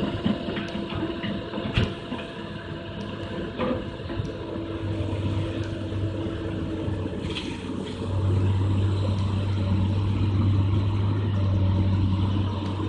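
Excavator's diesel engine running steadily with a few short knocks, the engine growing louder about eight seconds in as it works harder.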